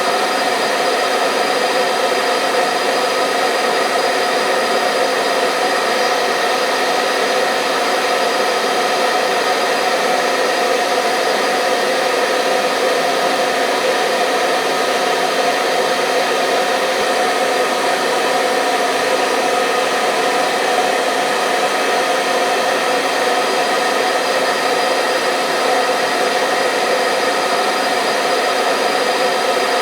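Hair dryer blowing steadily, a constant rush of air with a motor whine, used as white noise to lull babies to sleep.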